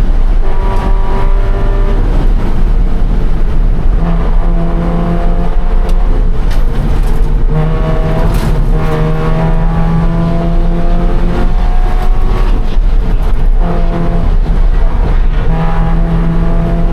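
Scion FR-S's flat-four engine at racing speed, its revs climbing and dropping back several times as it works through the gears, over heavy low rumble and road and wind noise.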